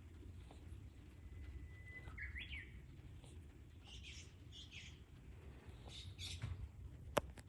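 Birds calling: a thin held whistle that breaks into quick up-and-down chirps, then several short high calls. A single sharp click comes near the end.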